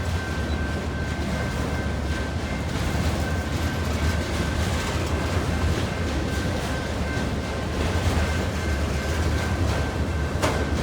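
Autorack freight train rolling past: a steady low rumble of wheels on rail, with a thin high steady tone running through it and one sharp click near the end.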